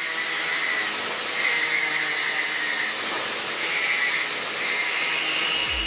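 Power tool running in repeated strokes, a steady hissing, grinding noise that swells and eases about every second. Electronic music with a deep beat comes in near the end.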